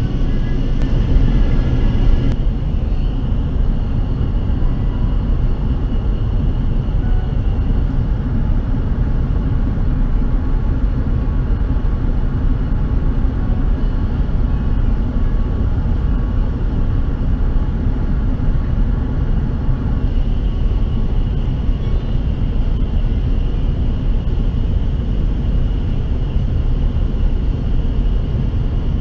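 Steady roar of an Airbus A380 in flight, heard from inside the passenger cabin: an even, low-heavy rush of engine and airflow noise with a faint steady whine above it.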